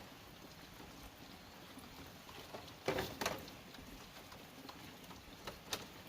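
A few light knocks and clicks over quiet background: a quick cluster of sharp knocks about three seconds in, and a single click near the end.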